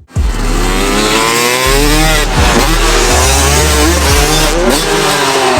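Monster truck engines revving hard at a show, several overlapping engine notes rising and falling over a heavy low rumble.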